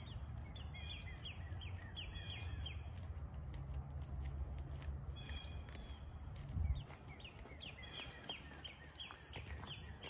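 Woodland birds calling: four bouts of quick repeated short notes, each slurring downward. Under them runs a steady low rumble, with a low thump about two-thirds of the way through.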